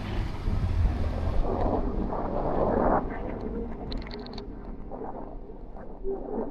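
Outdoor city ambience: wind rumbling on the microphone and the wash of traffic, heaviest in the first second or so and easing after that, with a short high-pitched sound about four seconds in.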